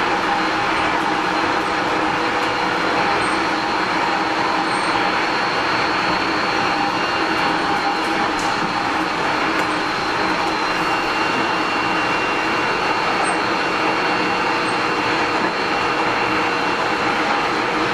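Tobu Series 30000 electric train, with Hitachi IGBT-VVVF traction, running at a steady speed as heard inside the passenger car. It makes an even rumble and rush of wheels on rail with a few steady humming tones over it, with no change in speed.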